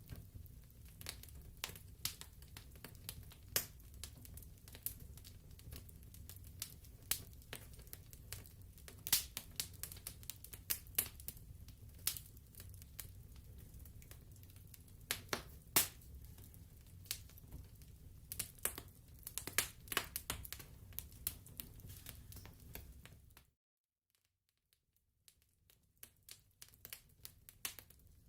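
Wood fire crackling and popping irregularly over a low, steady rumble. About 23 seconds in the sound cuts out almost to silence for a moment, then faint crackles return and grow louder near the end.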